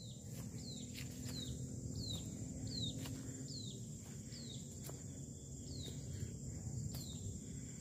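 A bird gives a short, falling high call over and over, about every two-thirds of a second, over a steady high insect drone. Low rustling and a few soft knocks come from someone walking through grass.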